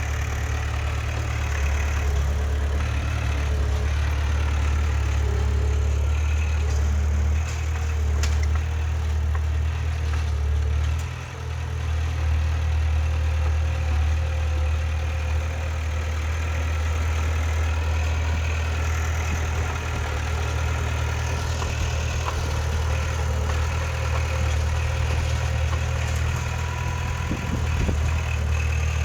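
Diesel engine of heavy earthmoving machinery running steadily with a deep low drone, briefly easing off about eleven seconds in.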